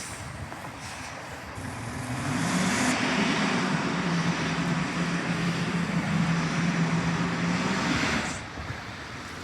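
A fire engine drives past. Its engine noise builds about two seconds in, holds loud with a steady low drone, and falls away at about eight seconds.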